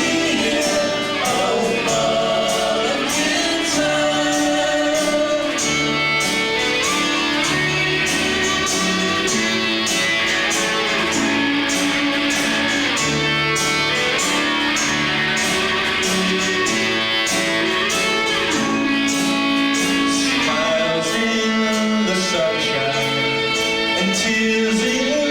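Rock band playing a ballad live: guitar over a steady drum beat, with singing.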